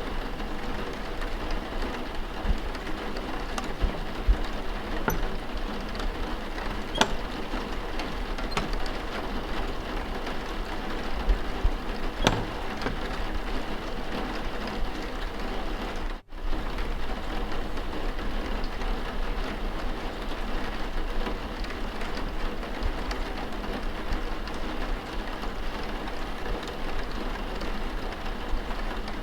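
Steady rain falls throughout, with a few faint sharp clicks over it. There is a sudden momentary dropout in the sound about halfway through.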